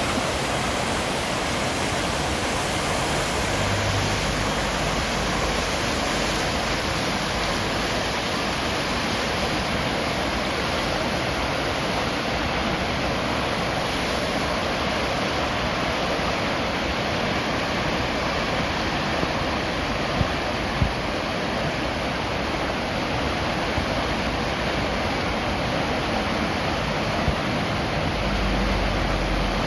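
Waterfall rushing: a steady, unbroken roar of falling water with no change in level.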